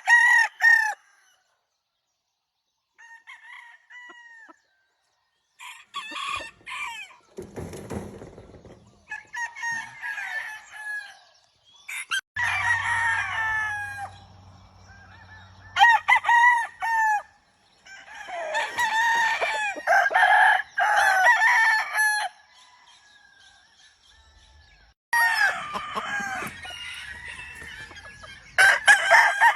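Several roosters crowing one after another and overlapping, with some clucking between the crows, broken by brief silent gaps.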